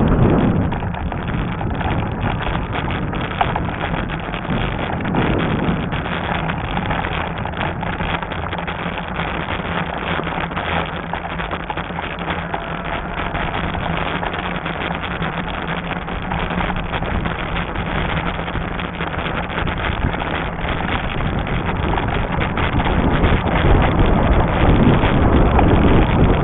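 Wind rushing over the microphone and the steady running rumble of a Lectric XP fat-tire e-bike on a trail, growing louder over the last few seconds.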